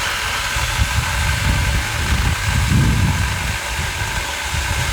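Saker 4-inch mini battery electric chainsaw running steadily with a whine, its chain cutting through a branch with an uneven low rumble that is loudest near the middle of the cut.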